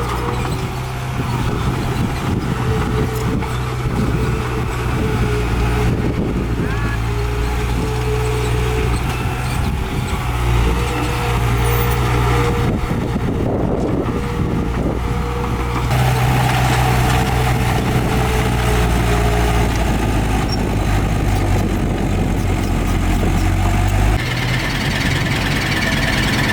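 Heavy diesel engines of earthmoving machines, a bulldozer and dump trucks, running steadily at work, with the engine sound changing abruptly several times.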